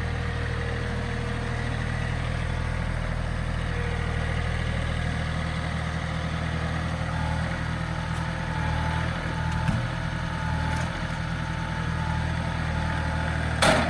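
A John Deere 3032E compact tractor's three-cylinder diesel engine running steadily at a constant speed, with a sharp click near the end.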